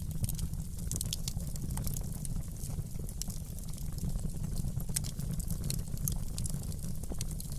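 Wood fire in a fireplace crackling: frequent small sharp pops and snaps over a steady low rumble.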